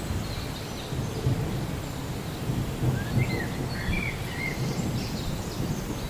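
Steady rain with a low, uneven rumble underneath. Near the middle a bird chirps a few short times.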